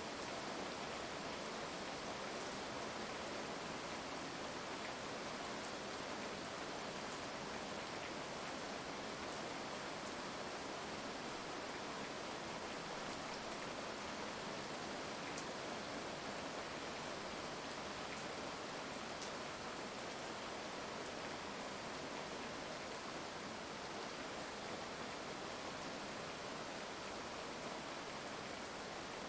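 Heavy rain falling steadily as an even hiss, with a few faint sharp drop ticks here and there.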